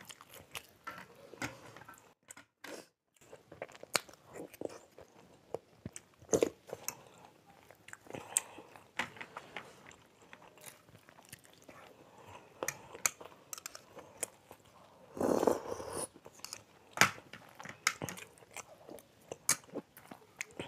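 Two people chewing soft idli with sambar, close to the microphone: mouth noises and lip smacks with many scattered sharp clicks, and one longer, louder sound about fifteen seconds in.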